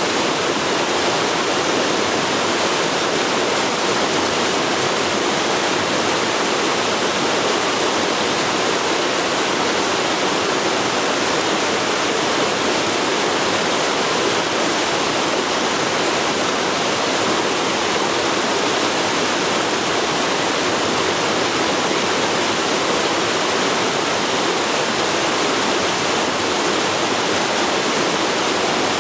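Forest river flowing over rocks: a steady, dense rush of water with no change in level.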